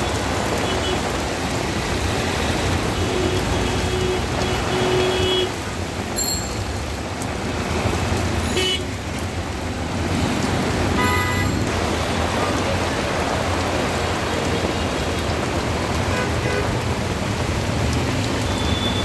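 Steady rain mixed with the hiss of street traffic, with short vehicle-horn toots about three to five seconds in and again near the middle.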